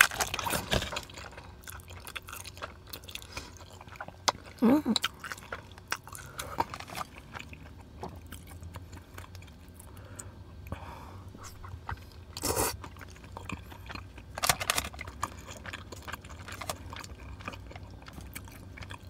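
Close-miked chewing of soft, cheese-covered tteokbokki rice cakes, with wet mouth smacks and short clicks. Two louder noisy bursts come about twelve and fourteen seconds in.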